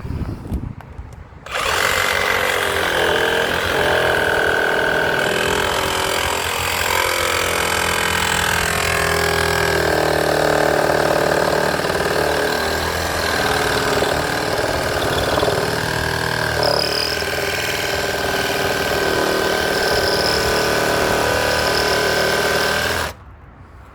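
A handheld power tool runs for about twenty seconds, cutting through a screw in the gate. It starts about a second and a half in and cuts off abruptly near the end, with a steady whine that wavers a little under load.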